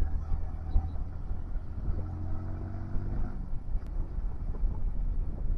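Motorcycle engine running while being ridden on the road, a steady low rumble. A higher, pitched engine tone with several overtones joins about two seconds in and stops a little after three seconds.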